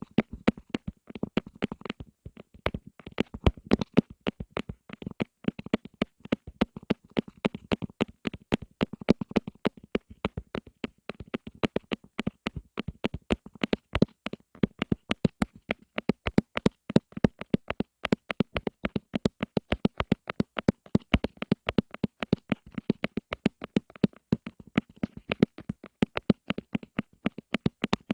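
Rapid, irregular tapping on an object at close range, several crisp taps a second.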